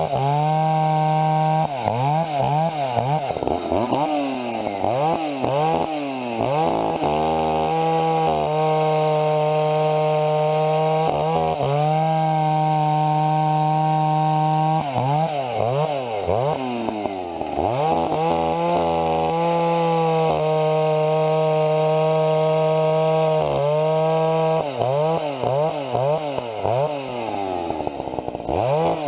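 Chainsaw running at high revs, held steady for long stretches, with its pitch dropping and climbing back quickly several times as the throttle is let off and opened again.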